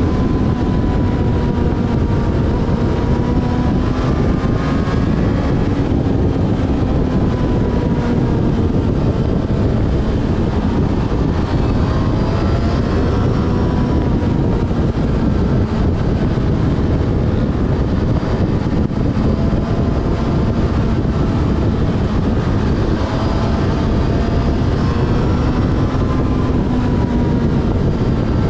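Yamaha Fazer FZ6S's 600 cc inline-four engine running on the move, its pitch rising and falling gently with the throttle, under heavy wind rush on the microphone.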